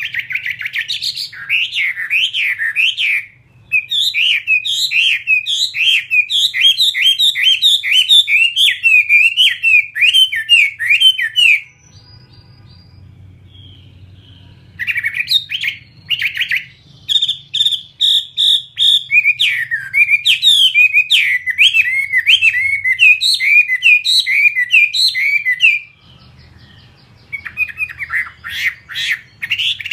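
Chinese hwamei (laughingthrush) singing loudly in long bursts of rapid, repeated, varied whistled notes, pausing for about three seconds roughly twelve seconds in and briefly again near the end.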